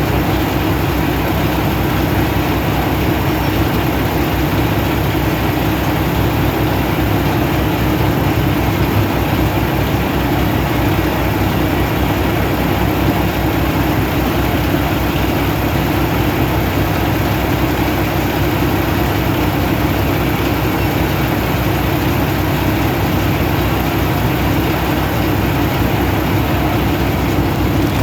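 Heavy diesel truck engine idling with a steady, unchanging low hum.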